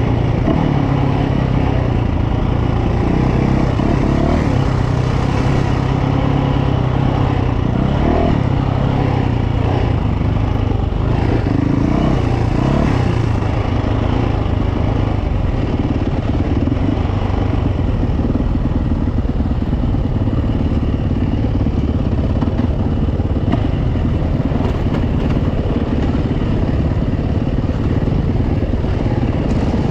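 Yamaha YZ450F four-stroke single-cylinder dirt bike engine running while riding, its note rising and falling with the throttle.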